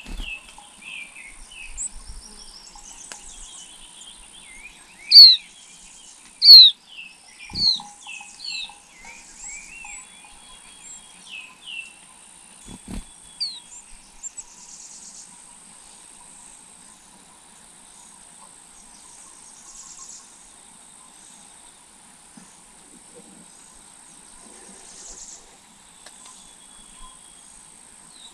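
Birds chirping and calling in quick, sharp, falling notes, bunched in the first ten seconds with the two loudest calls about five and six and a half seconds in, over a steady high-pitched insect drone. Two dull knocks come about eight and thirteen seconds in.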